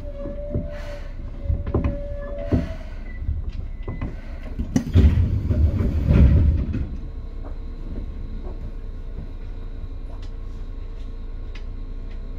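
Seibu 2000 series electric train heard from inside a car: a steady tone with a few clunks as it runs slowly, then a loud burst of air hiss and low clatter about five seconds in. After that an even, steady hum with a faint constant tone continues.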